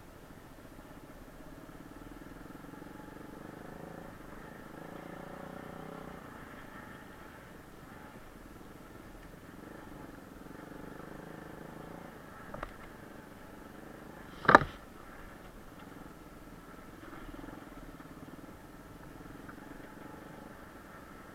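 Kayo pit bike engine running, its pitch rising and falling. A small click is heard a little past halfway, and a sharp, loud knock follows about two seconds later.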